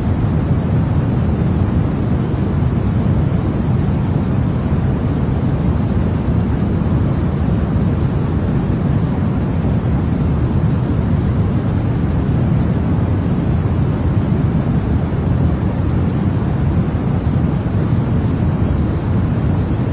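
Continuous 'white noise' sleep sound for babies: a steady, deep rushing hiss, heaviest in the low end and unchanging throughout.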